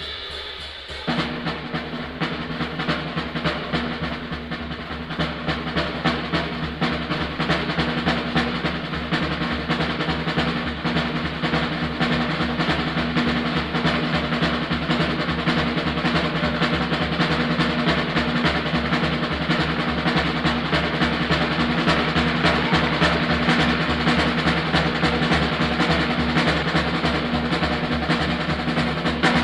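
Live 1940s bebop jazz recording with the drum kit to the fore: fast snare rolls and bass drum strokes.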